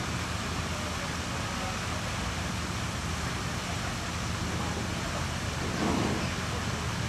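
A vehicle engine running steadily under a broad hiss, with a brief louder swell about six seconds in.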